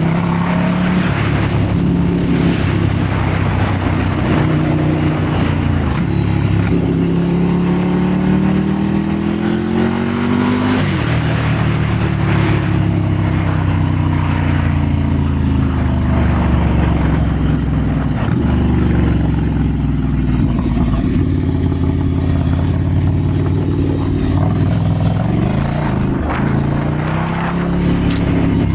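Ducati Scrambler's air-cooled L-twin engine pulling along a sandy trail: the revs climb for a few seconds, drop suddenly about eleven seconds in, ease down gradually, then rise and dip again near the end.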